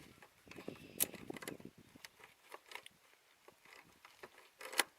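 Scattered light clicks and clinks of small hand tools being handled, with a sharp click about a second in and another near the end.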